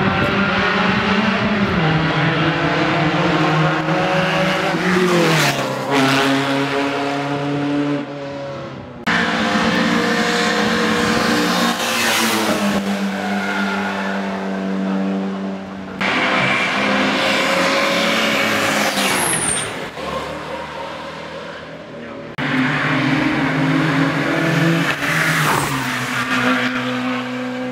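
Classic racing car engines running at high revs under hard acceleration, the pitch climbing and dropping back as they shift gears. The sound changes abruptly several times, about every six or seven seconds.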